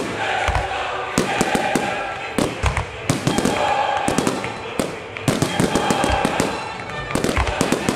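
Fireworks display: a dense run of sharp bangs and crackling from shells and low-level effects bursting, with a few deep booms among them.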